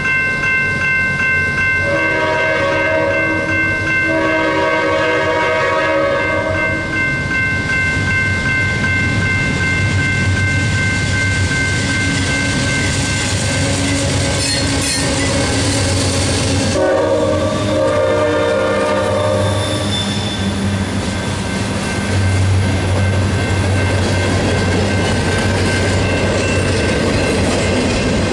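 Diesel freight train at a grade crossing: the locomotive horn sounds three long blasts over the steady ringing of the crossing bell, then the engine rumbles past and the freight cars' wheels clatter over the rails.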